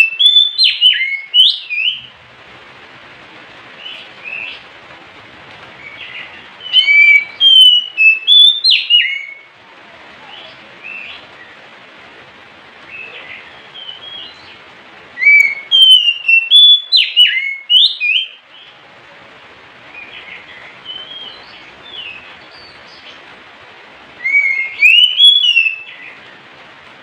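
Oriental magpie-robin (kacer) singing: loud bursts of rich whistled phrases with rising and falling notes, four times, each about two to three seconds long, with softer scattered notes in between.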